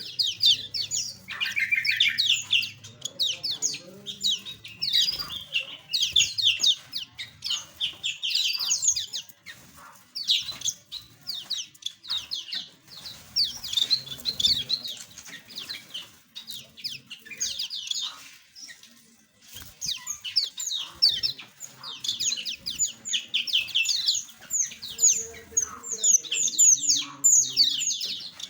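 Small aviary birds chirping in rapid, chattering runs of short high calls, with brief lulls between the runs.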